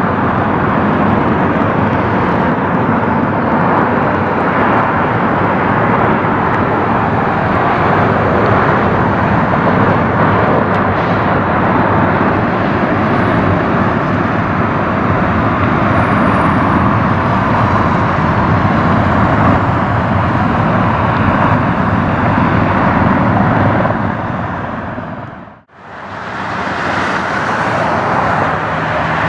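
Airbus A320 jet engines running, a loud steady rushing noise. It fades out about 26 seconds in, and another airliner's jet noise fades in.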